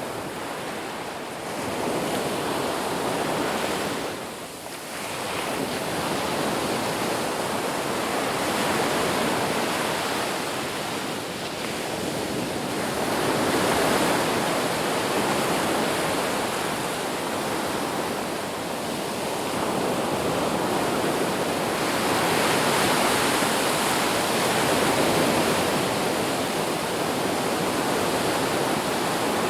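Ocean waves washing on a beach, a continuous surf that swells and eases every few seconds, with a short lull about four seconds in.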